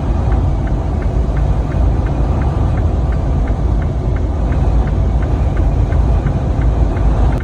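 Truck driving in high wind: a steady, loud low rumble of wind and road noise, with a faint ticking repeating about three times a second.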